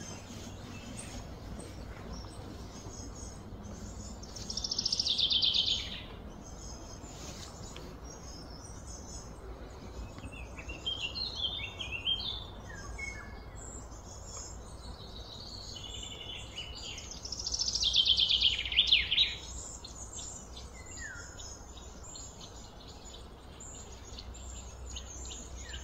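Birds singing: two loud, rapid trilled phrases, about five seconds in and again about eighteen seconds in, with scattered chirps between them, over a steady low background rumble.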